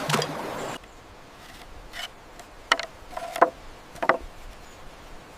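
Bamboo poles knocking together while being fitted: four separate sharp knocks over a few seconds, some with a brief ringing tone. A loud rushing noise at the start cuts off suddenly under a second in.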